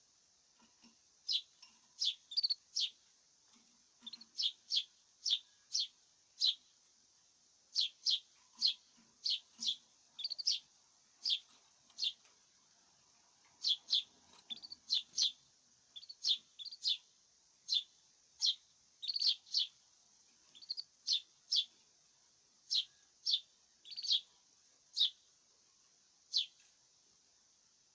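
Caged small songbird chirping: short, sharp, high call notes repeated about one or two a second in irregular runs, with brief pauses between runs.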